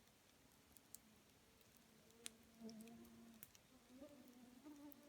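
Campfire burning quietly, with a few sparse sharp crackles and pops from the wood.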